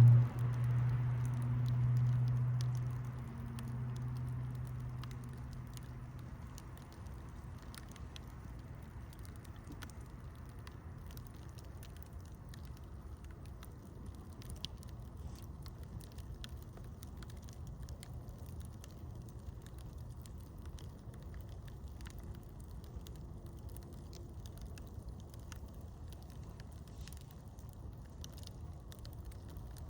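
Campfire crackling, with many scattered small pops over a steady soft hiss. A low hum fades away over the first several seconds.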